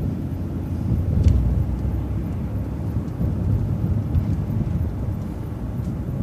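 City bus driving along a street: a steady low rumble of engine and road noise inside the bus, with one short knock about a second in.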